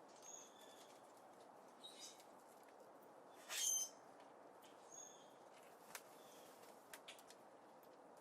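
Small birds chirping at a seed feeder: short high chirps every second or two, and one louder call about three and a half seconds in. A few sharp clicks near the end, over a faint steady hiss.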